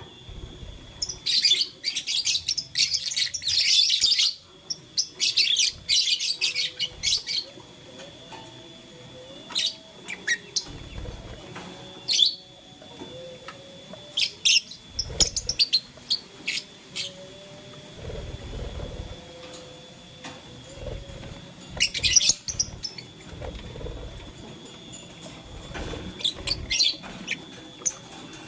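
Lovebirds chirping in quick bursts of rapid high chirps, dense in the first several seconds and sparser later, with soft thumps and rustles of the birds moving about between the bursts.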